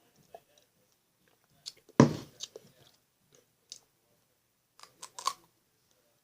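Chewing and biting into raw green pepper, heard as scattered short clicks, with a loud thump about two seconds in and a few more clicks near the end.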